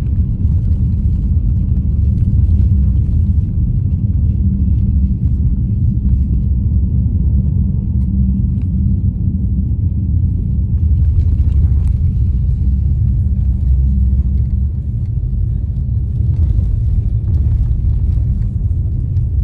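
Steady low rumble of a moving car heard from inside the cabin: tyre and engine noise while cruising at an even pace.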